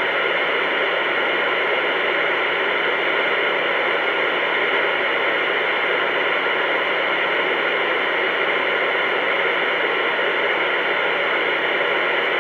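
Steady loud hiss and static from a CB radio receiver as another station keys up and sends only noise. It is a bad transmission that the other operators take for a faulty microphone, perhaps a dead battery in a power mic.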